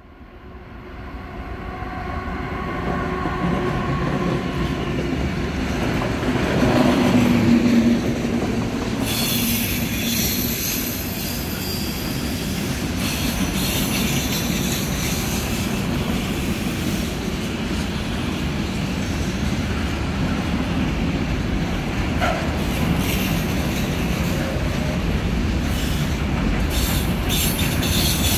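Freight train of tank and swap-body container wagons rolling past, a steady heavy rumble of wheels on the rails that swells over the first few seconds, with brief high-pitched screeches from the wheels.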